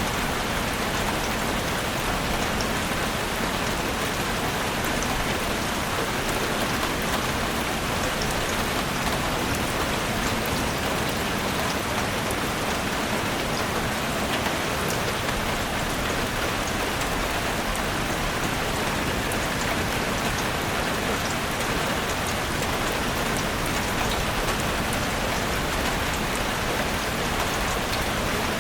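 Steady rain falling on a forest, a dense even hiss made of countless small drop patters, without thunder.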